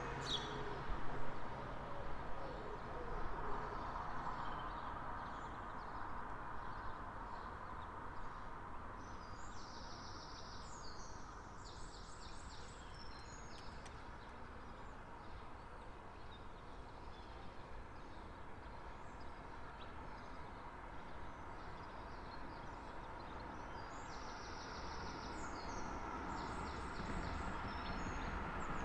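Early-morning street ambience: a steady hum of distant traffic, with a songbird singing short bursts of notes about ten seconds in and again near the end. A vehicle grows louder as it approaches in the last few seconds.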